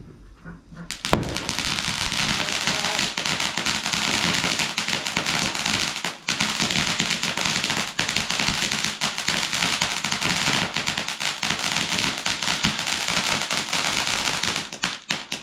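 A firework giving off a dense, rapid crackle. It starts suddenly about a second in, breaks off briefly near the middle, and stops suddenly near the end.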